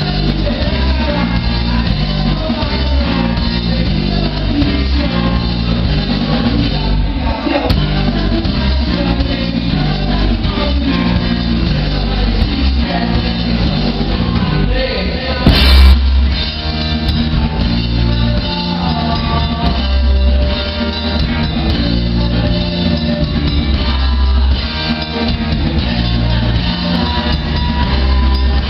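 Rock band playing live: electric guitar, bass and drum kit keeping a steady beat, with a voice singing. About halfway through comes a brief loud burst, the loudest moment.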